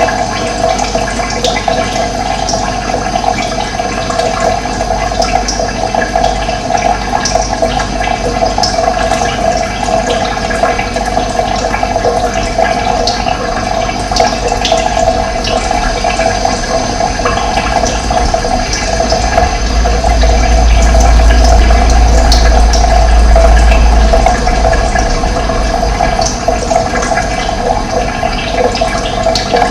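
Running water rushing steadily, with a low rumble that swells for a few seconds about two-thirds of the way through.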